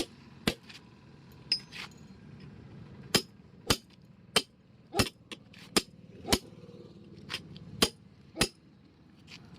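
Hammer blows during truck tyre work, about a dozen sharp strikes with a clinking ring, coming at uneven intervals of roughly half a second to a second.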